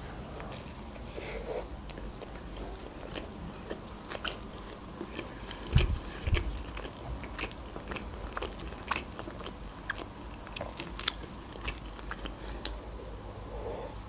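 Close-miked mouth sounds of biting into a burger and chewing it: many small wet clicks and crunches. A couple of louder low thumps come about six seconds in.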